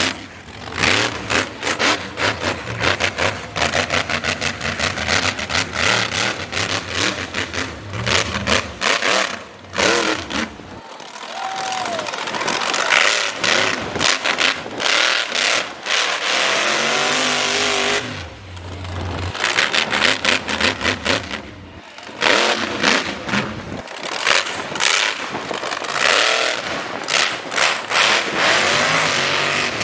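Monster truck engine revving hard, loud and choppy, with a few brief drops in the noise.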